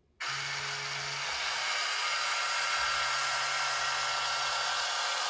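Huina 1582 RC dump truck's tipper mechanism running to raise the dump bed: a steady electric motor whine that starts suddenly just after the beginning.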